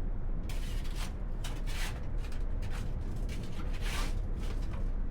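Small hand shovel scraping and scooping trash and grime from behind the packer blade inside a front-load garbage truck's hopper. There are several separate scrapes over a steady low rumble.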